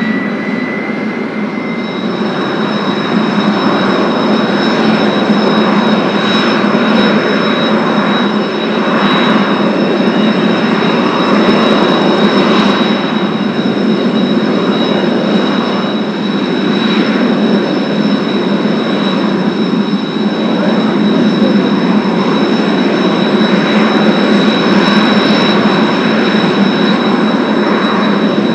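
Kawasaki T-4 jet trainers' turbofan engines running steadily and loudly, with a high whine; a tone rises in the first couple of seconds, then the whine holds steady.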